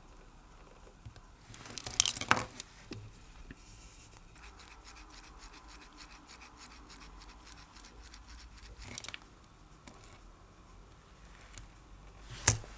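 Small sharp clicks from a watch being handled on the bench: a cluster about two seconds in, a spell of rapid fine ticking or ratcheting in the middle, and one sharp click near the end.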